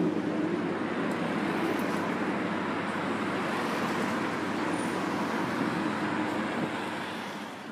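Steady vehicle noise, an even rumble and hiss, fading out near the end.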